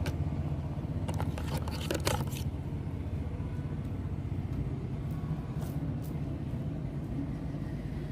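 A steady low mechanical hum, with a few short clicks and scrapes about one to two seconds in.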